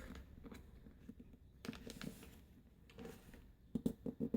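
A sheet of printer paper being handled and creased by hand: faint rustles and small taps, with a quick run of sharper taps near the end.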